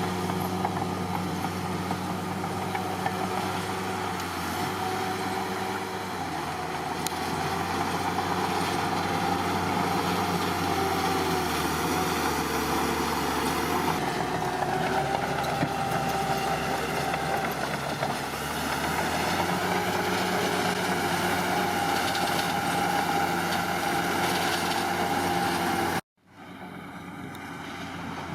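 Bulldozer diesel engine running steadily, its pitch shifting up and down several times as the load changes. About two seconds before the end it cuts off abruptly to a much quieter engine sound.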